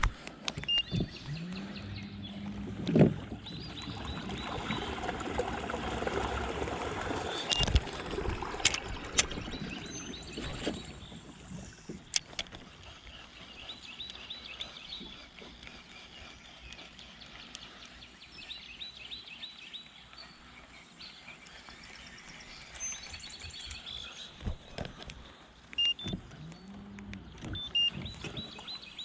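Fishing reel being cranked in quick runs of even ticks while a bass is fought from a kayak, with a few sharp knocks, the loudest about three seconds in.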